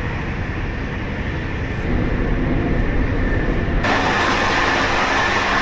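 Running noise of a moving passenger train heard from inside the carriages, a steady low rumble. Nearly four seconds in it suddenly turns louder and hissier as the rail noise comes through more openly.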